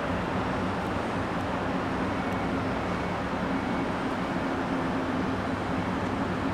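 Steady low engine drone from a ferry, a constant hum under an even rushing noise, with no change.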